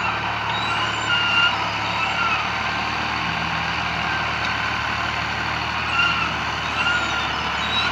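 New Holland 480 tractor's diesel engine running steadily under work, with short high-pitched chirps coming and going over it.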